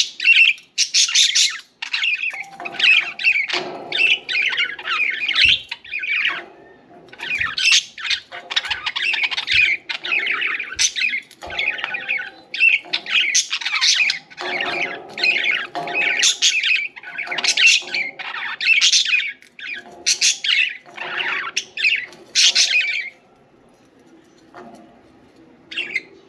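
Budgies chattering and chirping in quick, warbling bursts, several birds at once, until they fall mostly quiet about three-quarters of the way through, with one short call near the end.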